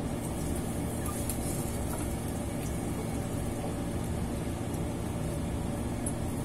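A steady low mechanical hum with a faint crackling hiss of breaded sweet potato rolls frying in hot oil.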